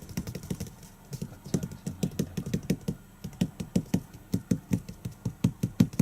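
Rapid soft tapping from kittens, settling into a fairly even run of about five to six taps a second from about a second and a half in.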